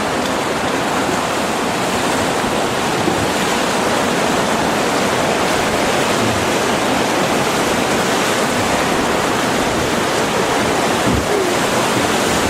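Loud, steady rush of river whitewater as a boat runs through a rapid.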